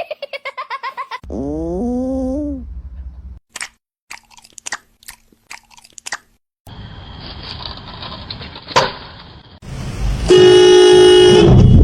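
A run of short edited clips: a drawn-out call that rises and then falls, scattered clicks, then a loud, steady horn blast lasting about a second and a half near the end, the loudest thing here.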